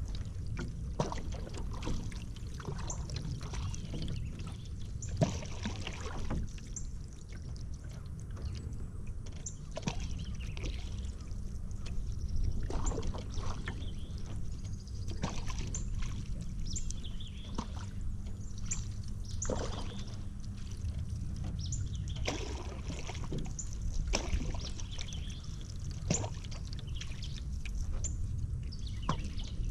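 Paddle strokes dipping and splashing in river water, irregularly every second or two, with water dripping off the blade, over a steady low rumble.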